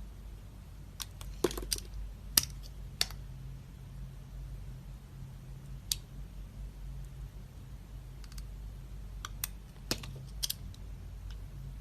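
Dry soap being cut: scattered sharp, crunchy cracks, in a cluster early on, a single one midway and another cluster near the end, over a faint low hum.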